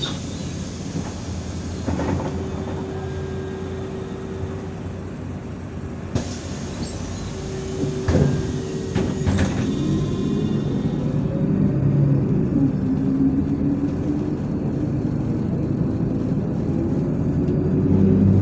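Inside a MAZ-103 city bus: steady engine and running noise, with a few sharp knocks and rattles. From about ten seconds in, the engine note rises as the bus accelerates.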